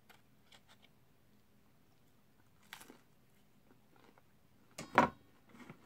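A person biting into and chewing a fried chicken nugget at close range: quiet chewing with a short crunch about three seconds in, and a louder, sharp crunchy bite about five seconds in.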